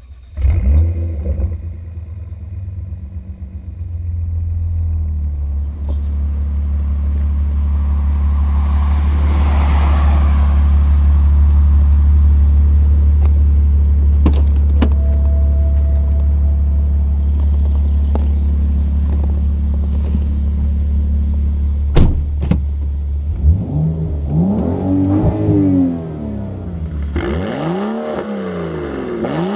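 Tuned BMW 135i's turbocharged straight-six starting with a short flare and settling into a steady idle through its quad-tailpipe exhaust, with a few sharp clicks and clunks of the car door partway through. Near the end it is blipped several times, revving up and falling back.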